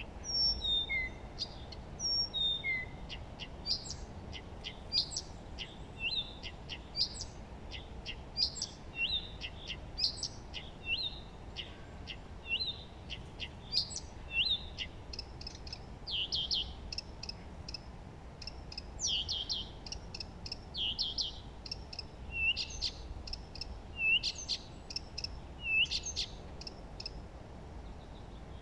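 Several songbirds singing and chirping, with short calls, quick sweeping notes and fast trills overlapping one another, over a steady low background noise.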